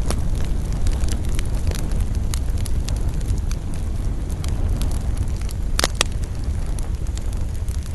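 A wood fire burning in a fireplace: a steady low rumble of flames with frequent small crackles and snaps, and one louder pop about six seconds in.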